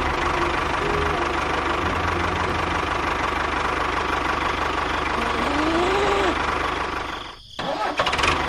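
Small engine of a homemade mini tractor running steadily with an even low chugging. It breaks off briefly near the end and then picks up again.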